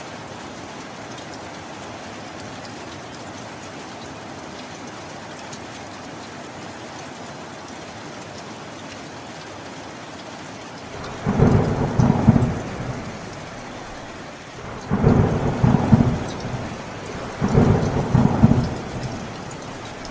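Steady rain, with three rolls of thunder in the second half, each lasting a second or two.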